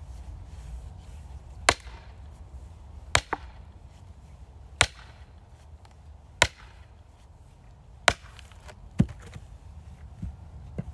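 Axe splitting firewood: six sharp strikes, about one every second and a half, with a few lighter knocks between and after them.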